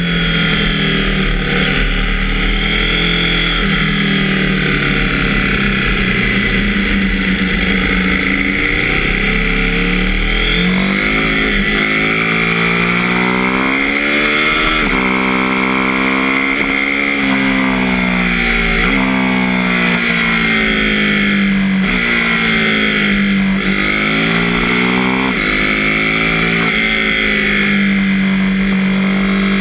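KTM 790 Duke's parallel-twin engine running under load in sixth gear, its note rising and falling again and again as the throttle is opened and eased through the bends.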